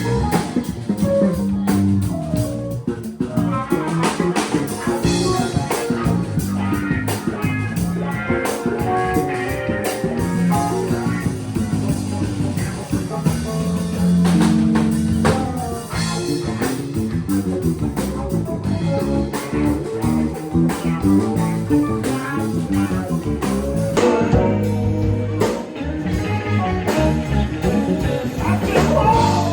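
A band playing a guitar-led instrumental passage over bass and drum kit, in a blues-rock style.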